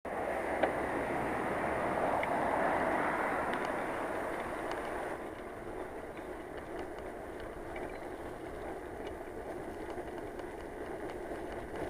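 Steady road noise from a bicycle ride: tyres on tarmac and rushing air, swelling over the first few seconds and then settling lower, with a few faint clicks.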